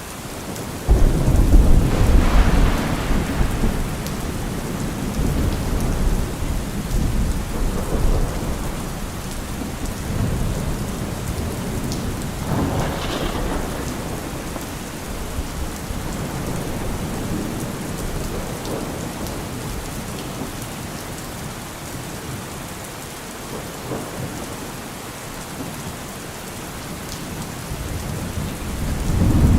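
Heavy rain drumming steadily on a car roof, with rolling thunder. A loud thunderclap breaks about a second in and rumbles away slowly, another rumble swells around the middle, and the thunder builds again near the end.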